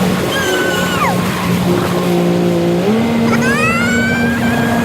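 Jet ski engine running at cruising speed, then revving up about three seconds in, with a high whine that rises along with it.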